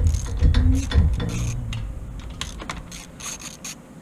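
Hand ratchet clicking in short runs as bolts on a Predator 6500 generator's carburetor are loosened.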